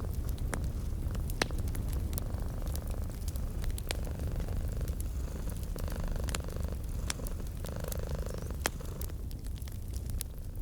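Domestic cat purring steadily in a low, continuous rumble, layered with a wood fire crackling, with sharp pops scattered irregularly throughout.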